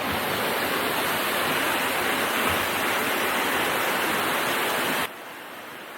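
Waterfall: a steady rush of falling water. It cuts off abruptly about five seconds in, giving way to a much quieter steady hiss.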